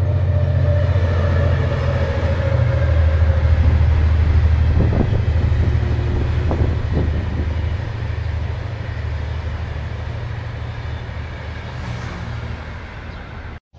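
Passenger train of Spanish-built coaches hauled by a Henschel diesel locomotive passing by: a steady low rumble that swells over the first few seconds and then slowly eases, with a few sharp clicks around the middle.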